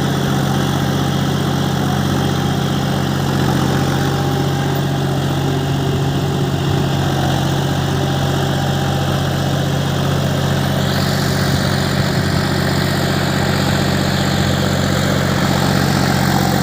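John Deere 5105 tractor's three-cylinder diesel engine idling at a steady speed.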